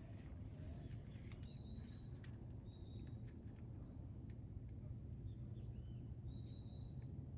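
Faint outdoor nature ambience: a steady high insect drone, with short, evenly pitched bird whistles repeating every second or two over a low rumble.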